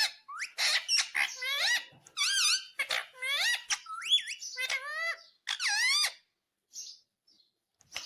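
Indian ringneck parrot giving a quick series of shrill squawks, each bending up and down in pitch, for about six seconds, then falling mostly quiet near the end.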